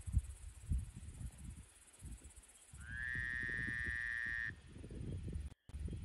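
Insects trill steadily in a high band over low, gusty wind rumble on the microphone. About three seconds in, a single pitched call rises slightly and then holds for under two seconds. The sound briefly cuts out near the end.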